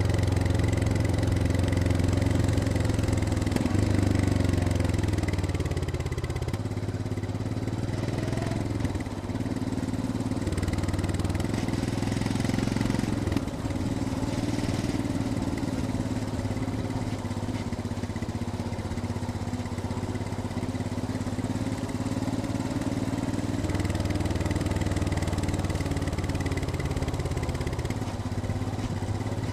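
Royal Enfield Scram 411's single-cylinder engine running as the motorcycle rides downhill. The engine note drops a few seconds in and stays lower through the middle, then picks up again near the end.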